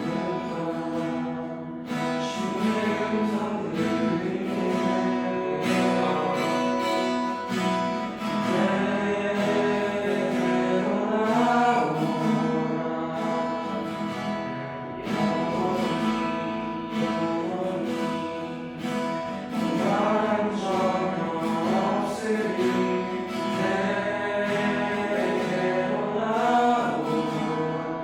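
Worship music: acoustic guitar strumming with people singing a melody over it.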